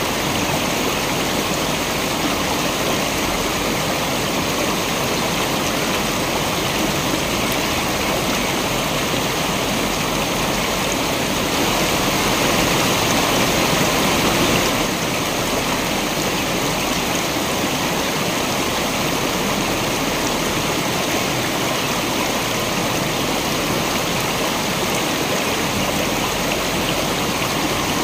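Waterfall and stream water rushing steadily, swelling slightly for a few seconds near the middle.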